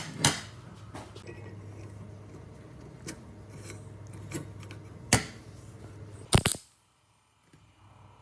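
Sharp, scattered knocks and clinks of metal parts or tools being handled, about six in all, the loudest a quick double knock near the end, over a steady low hum that stops shortly after it.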